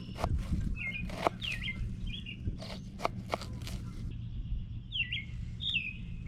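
Small birds chirping in short, quickly bending calls, about six times. Scattered sharp clicks and knocks fall in the first half, over a steady low rumble.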